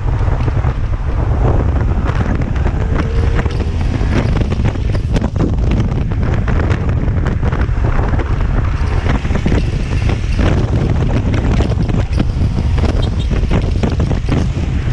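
Loud, steady wind buffeting on the microphone of a moving motorcycle rider's camera, over road and engine noise, with scattered short crackles.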